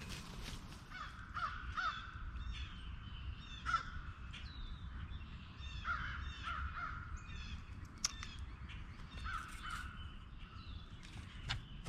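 Birds calling over and over: short, harsh, crow-like calls, often in twos and threes every second or two, with thinner, higher chirps between them and a sharp tick about eight seconds in.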